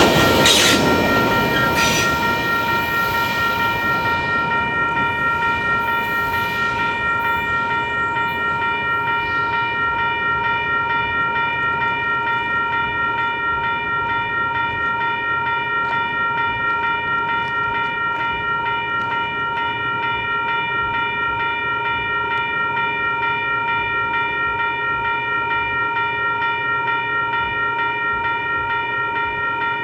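A train passing at the start, its rumble fading away over the first few seconds, while a railroad grade-crossing bell keeps ringing steadily with a fast even pulse.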